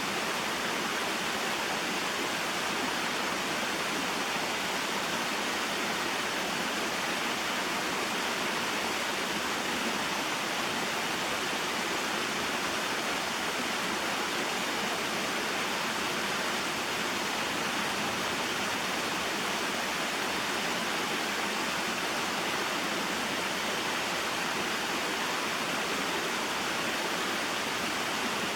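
Small mountain waterfall and stream: water falling and rushing over rocks in a steady, unbroken splashing wash.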